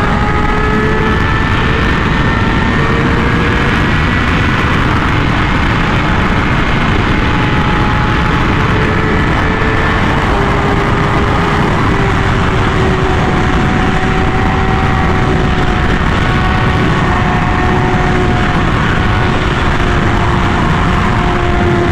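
Honda Fireblade CBR1000RR-R SP inline-four engine running through an SC Project exhaust at a steady cruise. Its note drifts slowly lower, with a slight step about three to four seconds in, under constant wind rush.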